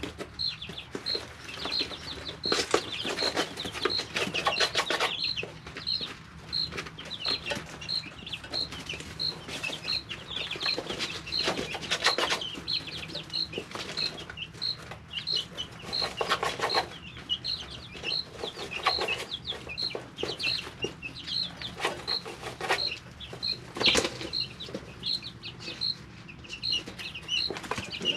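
Three-week-old chicks peeping in a brooder: one chick repeats a short, high peep evenly a bit under twice a second, over softer chirping from the others. Brief noisy rustles of wing flapping and scratching in the bedding break in every few seconds.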